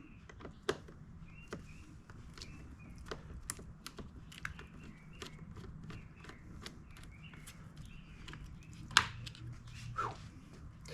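Scattered light clicks and taps of hand tools and plastic and metal parts being handled while an inverter generator is taken apart to reach its carburetor, with one sharper click about nine seconds in.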